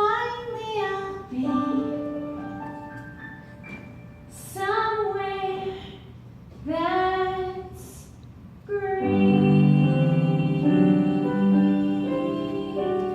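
A female voice singing a slow, sustained ballad in long held phrases with vibrato over keyboard accompaniment; about nine seconds in the accompaniment swells into fuller held chords.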